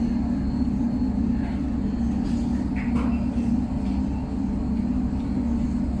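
A car ferry's engines running, a steady low rumble with a constant deep hum.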